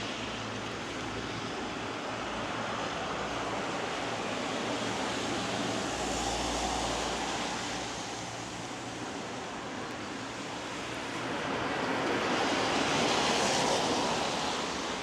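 Steady hiss of light rain and tyres on a wet road. It swells as a vehicle passes about twelve seconds in.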